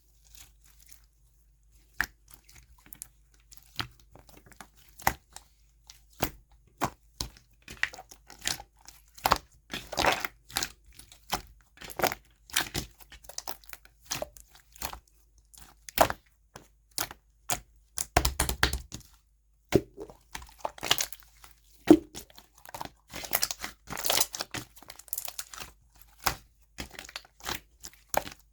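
Close-up slime play: irregular sharp crackles, pops and crinkles as the slime is pressed and worked by hand, with a denser burst about two-thirds of the way through.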